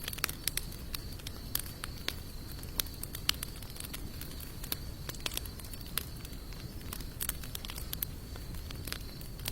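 Campfire of sawtooth oak and mixed hardwood logs crackling, with irregular sharp pops and snaps over a low steady rumble of the flames. A thin steady high tone runs underneath.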